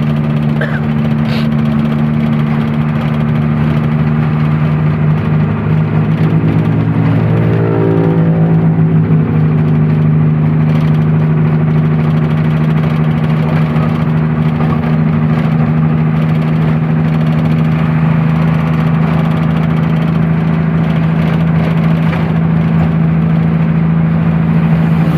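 Truck engine running steadily while driving, with a steady hum. The engine note wavers and shifts briefly about seven seconds in.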